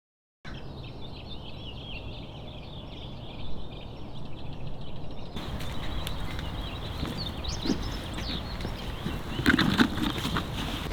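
Outdoor ambience with small birds chirping over a low steady rumble, and a few sharp clicks and knocks near the end.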